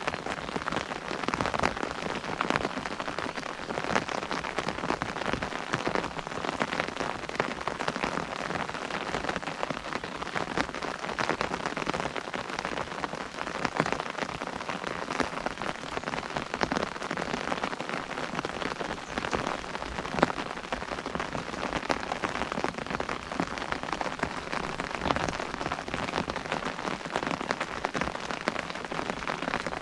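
Rain pattering on an umbrella canopy: a dense, steady stream of drops hitting the fabric.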